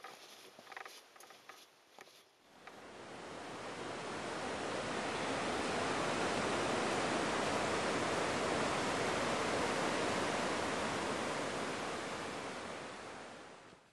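Steady rushing of fast-flowing water, like a mountain creek or waterfall, fading in about two and a half seconds in and fading out near the end. Before it come a few faint light knocks or footsteps.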